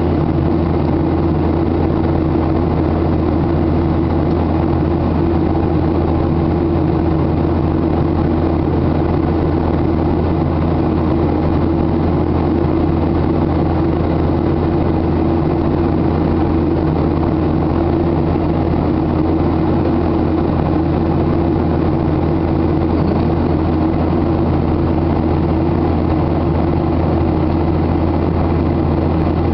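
Steady drone of a Boeing 737-800's CFM56-7B jet engines and airflow, as heard inside the passenger cabin in flight: a constant low hum with a rushing hiss above it.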